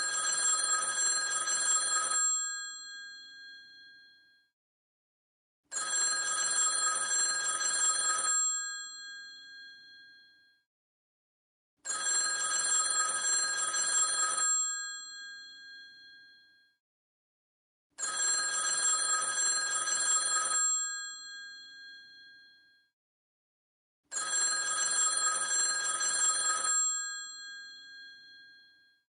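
Old rotary telephone's bell ringing: five rings of about two and a half seconds, one every six seconds or so, each ending with the bell tones dying away.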